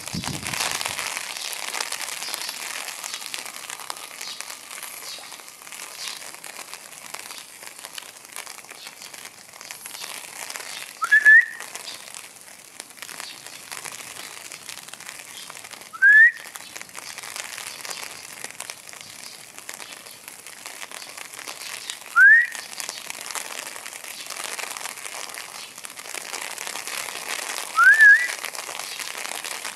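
A person whistling a short rising note four times, about five to six seconds apart, over a steady hiss.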